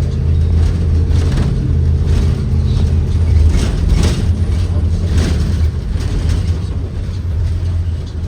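Ford 7.3L gasoline V8 of a Blue Bird Vision school bus running, heard on board as a steady low drone. A few short knocks and rattles come through in the middle.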